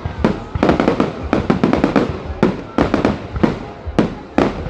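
Fireworks display: a rapid, uneven string of bangs and crackles from exploding shells, several per second.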